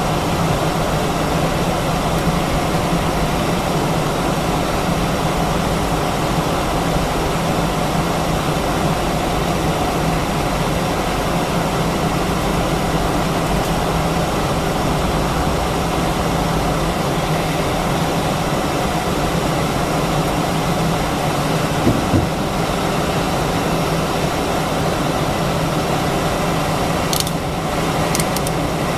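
Airliner cabin noise in an Airbus A319-132: the IAE V2500 engines running steadily with a low hum under the air-conditioning hiss. There is a brief low bump about 22 seconds in and a few light clicks near the end.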